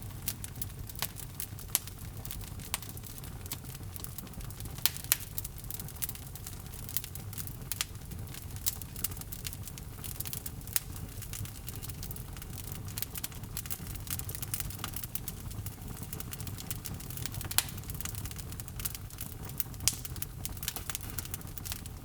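Wood fire in a fireplace crackling and popping, with frequent irregular sharp pops over a low steady rumble of the flames.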